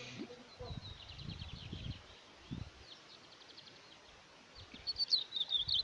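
Lined seedeater (bigodeiro) singing a fast run of short, high notes. The song is faint about a second in, then comes back louder and faster near the end.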